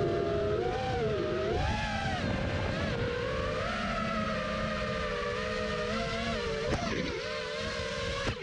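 FPV racing quadcopter's brushless motors whining in flight, the pitch rising and falling with the throttle, with a quick dip and climb about seven seconds in.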